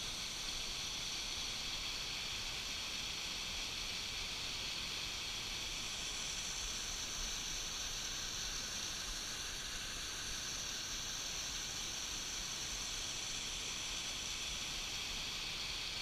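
Waterfall: steady, unbroken rush of falling water, hissy and even throughout.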